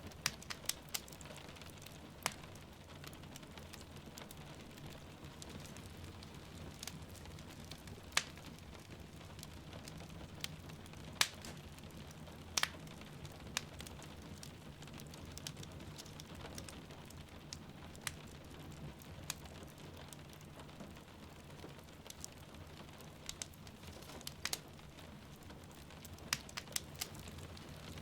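Wood fire crackling with scattered sharp pops at irregular intervals over a steady bed of rain falling.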